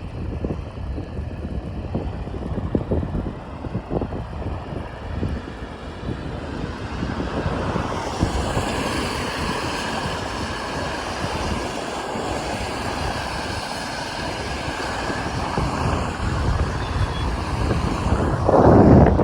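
Wind buffeting the microphone in gusts during a bicycle ride, over steady road noise. From about eight seconds in, a brighter, steadier hiss takes over, and a strong gust comes near the end.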